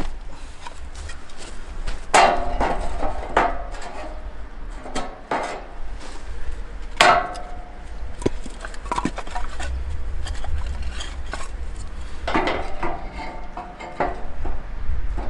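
Irregular knocks and clatter of hard objects, a few sharper strikes with a short ringing after each, over a steady low rumble.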